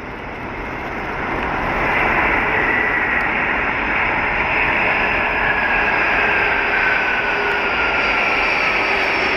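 Jet airliner's turbofan engines passing close by: the noise swells over the first two seconds and then holds steady, while a high whine slides down in pitch as the aircraft goes past.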